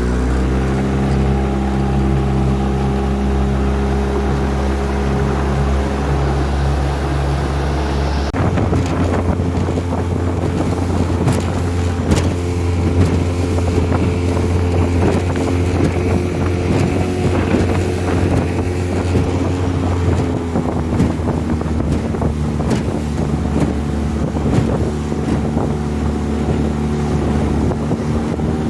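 Honda 20 hp four-stroke outboard motor on a 14-foot aluminum boat running steadily at speed, with wind on the microphone. The engine note changes abruptly about eight seconds in and dips slightly about two-thirds of the way through, with irregular knocks from then on.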